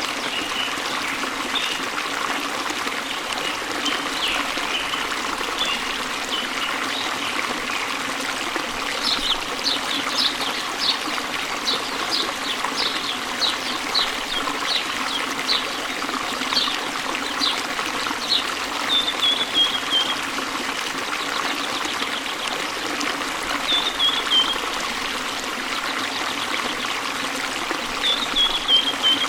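A stream trickling and flowing steadily, with a bird calling over it: a run of short, high notes about twice a second through the middle, then a few short falling phrases near the end.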